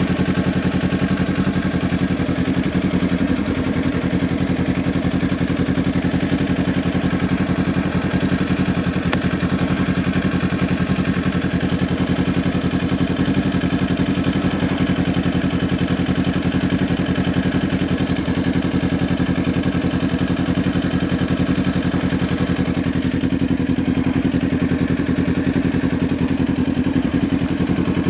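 Kawasaki Ninja 400's parallel-twin engine running through a Leo Vince LV10 slip-on exhaust, holding steady, unchanging revs with no revving.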